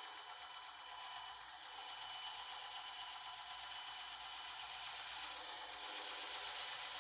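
Bandsaw running steadily, its blade cutting through a workpiece, with a continuous high whine and hiss.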